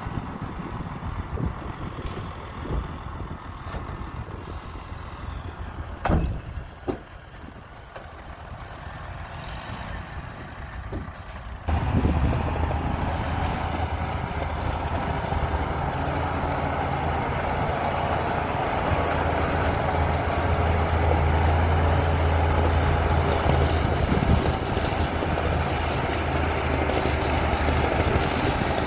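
Heavy diesel engine of a crawler bulldozer running, with a couple of sharp knocks partway through. About twelve seconds in it suddenly gets louder and settles into a steady, heavy low drone as the machine works under load.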